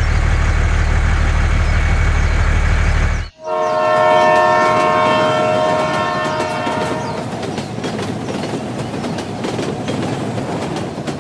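Train sounds: a steady low rumble that cuts off sharply about three seconds in, then a train horn blowing for about three and a half seconds, then the repeated clatter of wheels over rail joints.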